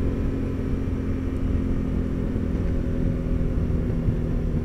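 Suzuki V-Strom 650's V-twin engine running steadily while the bike is ridden, with a low rumble of wind and road under it.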